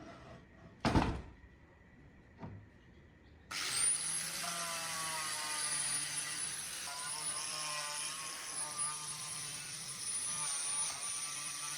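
A knock about a second in, then an electric power tool starts about three and a half seconds in and runs steadily with a high whine over a loud rushing noise.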